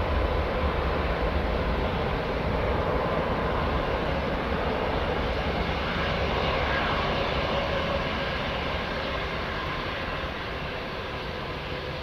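Twin jet engines of a Boeing 777-200ER at departure thrust, a steady jet noise with a faint whine, fading slowly as the airliner moves away.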